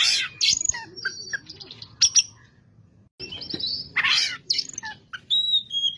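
Oriental magpie-robin (Kacer) singing: a varied run of clear whistled phrases and glides mixed with short harsh, scratchy notes, with a brief pause near the middle.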